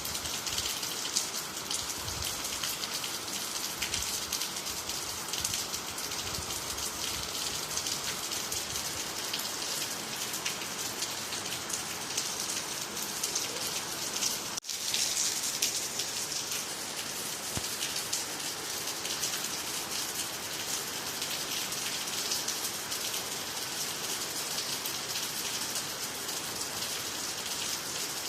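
Steady rain falling, a dense even hiss of many small drop impacts, with a split-second drop-out in the sound about halfway through.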